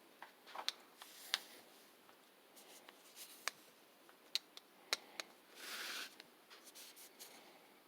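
Faint, scattered clicks and light knocks of a small engine's parts and tools being handled while the piston and connecting rod are taken out, with a brief scraping rub near the end.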